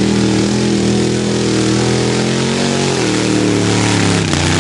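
Mud bog race truck's engine held at high revs under load. The pitch sags a little about three seconds in and dips sharply near the end before picking back up.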